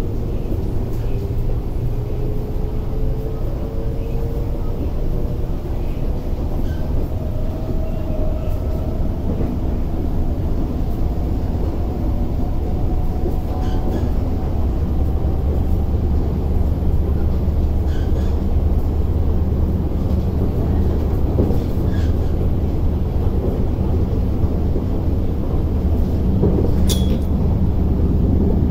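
Cabin of an MTR IKK (SP1900) electric multiple-unit train under way: a steady low rumble of wheels on track, with a whine that rises gently in pitch over the first half as the train picks up speed. A few short clicks from the track, the sharpest near the end.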